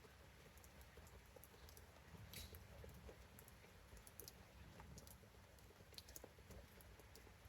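Faint, irregular ticks and taps of raindrops dripping onto leaves and plants, over a low, steady background hum.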